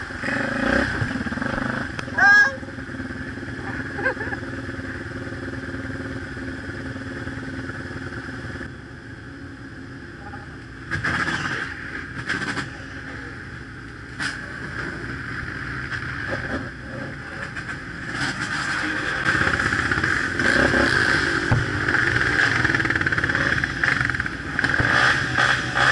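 Dirt bike and ATV engines running at low speed on a rough trail. A brief loud wavering squeal comes about two seconds in, a few knocks follow near the middle, and the engines grow louder in the last third.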